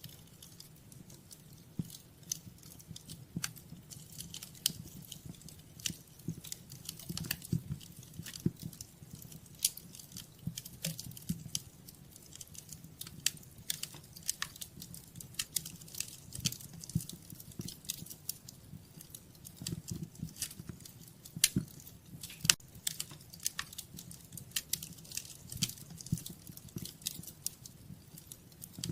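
Wood fire crackling in a fireplace: dense, irregular sharp pops and snaps over a low, steady rumble.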